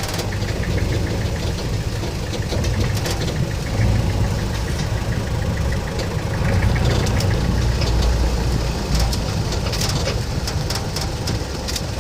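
Safari jeep's engine idling steadily, with a fast, even ticking clatter.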